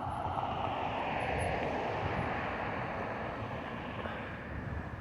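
A vehicle passing by: a broad rushing noise that swells in the first second and slowly fades away.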